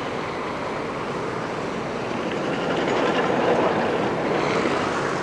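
Street traffic noise, swelling about three seconds in as a vehicle passes close, then easing.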